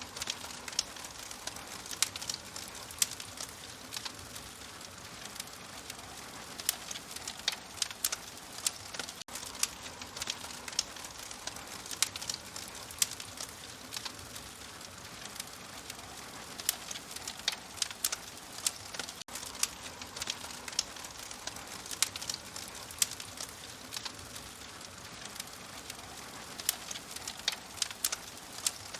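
Wood fire crackling, with frequent irregular sharp pops and snaps over a steady soft hiss.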